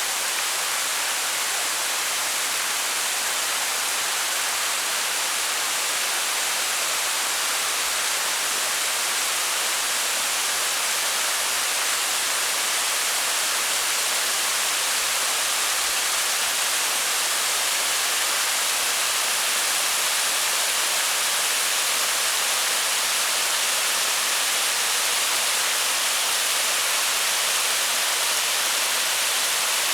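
Waterfall splashing into its pool: a steady hiss of falling water that holds unchanged throughout, mostly high and with little low rumble.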